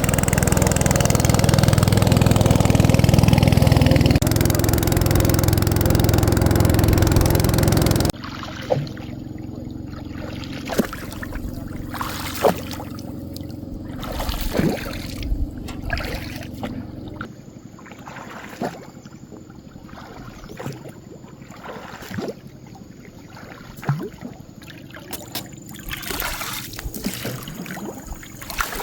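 A small engine runs loudly and steadily, then cuts off abruptly about eight seconds in. After that come scattered sharp knocks and faint water trickling.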